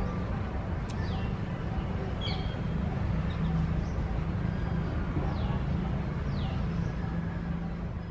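Birds calling with short, high, downward-sliding notes about five times, over a steady low rumble.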